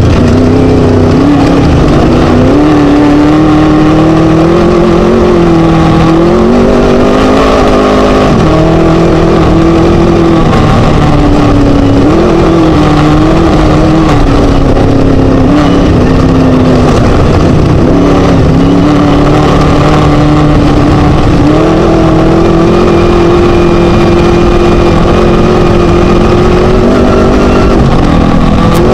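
Class 1 desert race buggy's Scat engine running hard at full throttle, its pitch climbing and then dropping sharply every few seconds as the throttle lifts or a gear changes. A heavy, steady rush of wind and road noise runs under it, loud enough to nearly clip.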